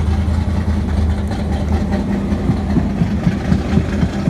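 A vehicle engine idling with a steady low hum. From about halfway through, a quick regular pulse comes in.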